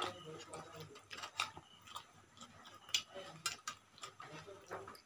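People eating roti with chicken curry: scattered wet clicks and smacks of chewing, roughly one or two a second.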